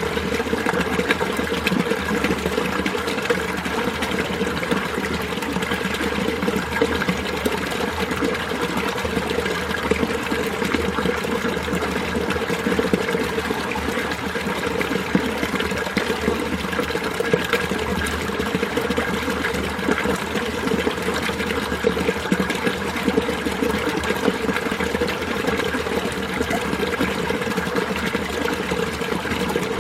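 Winter mountain stream flowing over rocks: a steady, continuous babble of running water.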